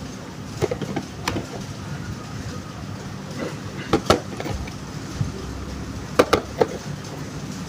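Sharp plastic clicks and taps from handling a toy car and its packaging: a few near the start, a pair about four seconds in, and a quick cluster about six seconds in, over a steady low hum.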